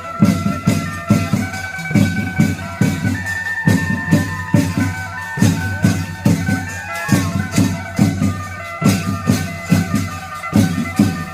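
Isan klong yao long-drum band playing: a steady beat of long drums and cymbals under a sustained, droning melody line.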